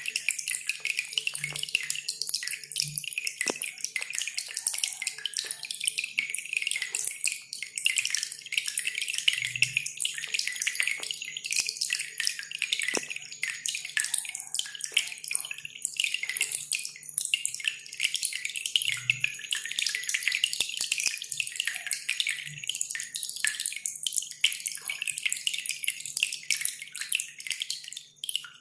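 Cililin (velvet-fronted nuthatch) song: a dense, rapid, high-pitched chattering that goes on without a break, with water dripping behind it.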